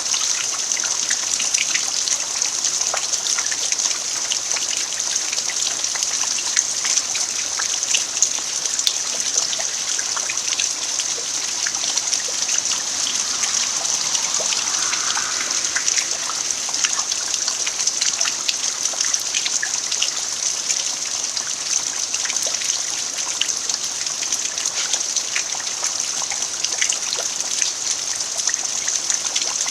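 Steady rain falling on a bare-earth farmyard: a constant hiss sprinkled with many separate drops ticking.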